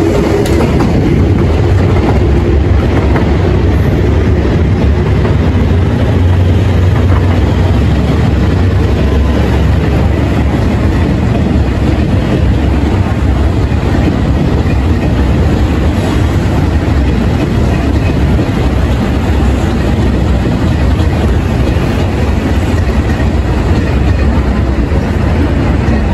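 Train running on the tracks: a steady, loud low rumble with wheel clatter.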